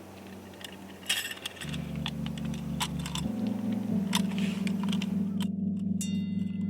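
Scattered light clicks and clinks, then calm background music with soft low sustained chords comes in about a second and a half in and runs under them.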